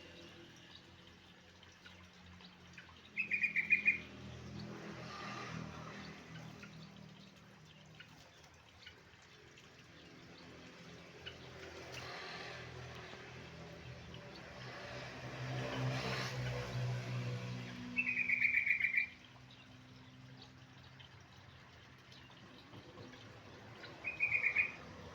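Yellow-vented bulbul (trucuk) singing three short, fast phrases of rapid notes, each about a second long: one a few seconds in, one about two-thirds through, one near the end. Between the phrases a low rumble swells and fades.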